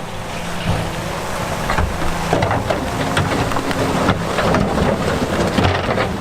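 Heavy diesel earthmoving machine running under load, with many stones knocking and clattering as rock is pushed or tipped.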